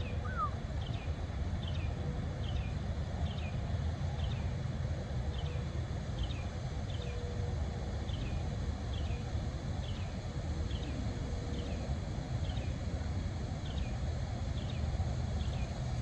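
Steady low outdoor rumble with a short, high, falling chirp repeated evenly about every two-thirds of a second.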